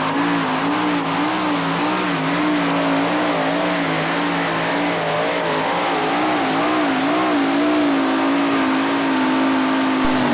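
Modified pulling tractor's engine running flat out under load, its pitch wavering up and down in quick swells over a dense roar.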